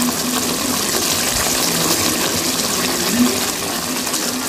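Thick tomato pickle cooking down in a hot kadai: a steady sizzling hiss from the pan.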